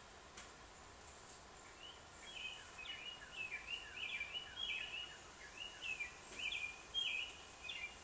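A songbird singing a quick run of chirping notes, many sliding down in pitch, starting about two seconds in and lasting about six seconds, over a faint steady hiss.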